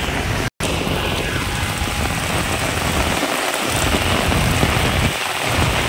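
Heavy rain pouring onto a wet road: a steady, dense hiss that cuts out for an instant about half a second in.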